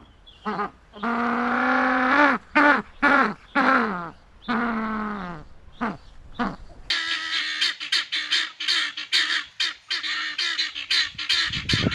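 Farm waterfowl calling: a few long calls, some falling in pitch at their ends, then about seven seconds in a fast run of short calls, several a second.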